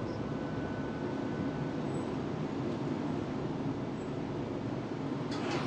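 Tram running along its tracks with a steady rumble of wheels and motors, heard from inside the car. A few sharp clicks come near the end.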